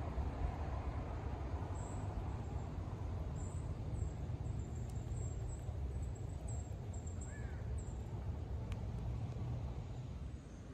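Outdoor park ambience: a steady low rumble under faint, high-pitched bird chirps, with one short bird call about seven seconds in.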